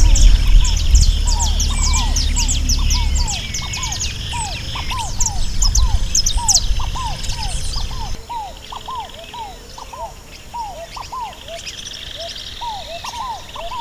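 Wild birds calling together, with many high chirps and trills over a steady series of short falling calls repeated a couple of times a second. A low rumble underneath stops about eight seconds in.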